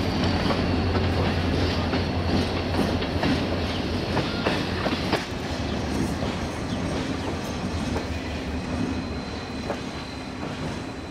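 Turkish State Railways passenger coach running along the track, heard from an open doorway: a steady low rumble with irregular clicks of the wheels over the rails. A faint high steady tone joins about halfway through.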